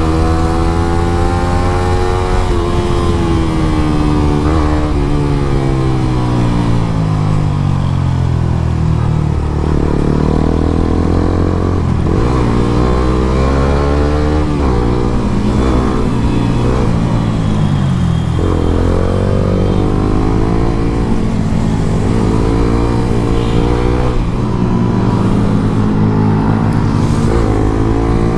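Motorcycle engines with aftermarket exhausts being revved hard while riding. The pitch climbs and drops again and again as the engines run up and ease off through the gears.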